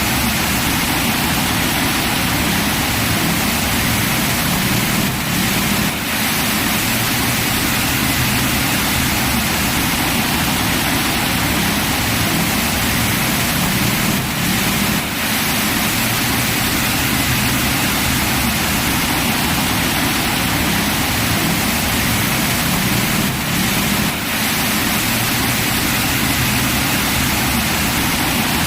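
Heavy rain pouring down steadily as an even rushing hiss, with brief slight lulls about every nine seconds.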